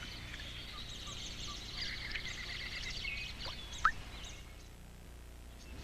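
Several birds chirping and calling over a low steady hum, with one loud short rising whistle about four seconds in; the calls thin out toward the end.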